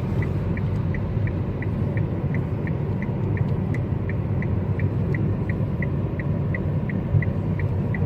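Inside a moving car: steady low road and engine rumble, with the direction indicator ticking evenly about three times a second.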